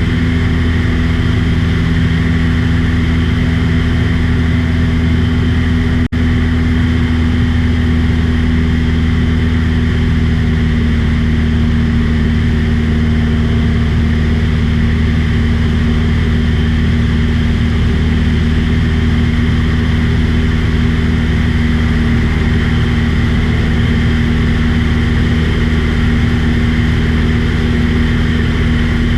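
Small aircraft's piston engine and propeller droning steadily in flight, with a momentary break about six seconds in.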